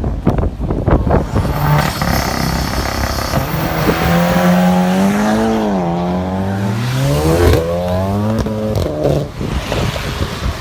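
Sports car accelerating hard, its engine pitch climbing, dropping at a gear change about six seconds in and climbing again before fading, over a steady hiss of heavy rain and wind.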